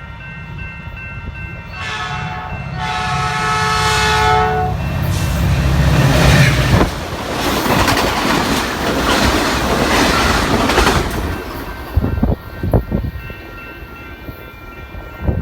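Locomotive horn sounding a chord for about three seconds as a train approaches, over a low engine rumble. Then comes the rush of the train passing, with a few wheel clacks on the rails near the end.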